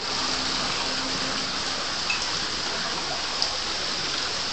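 Water pouring down an artificial fibreglass-rock wall waterfall into a pond: a steady, even rush of falling and splashing water, with a couple of small ticks about two and three and a half seconds in.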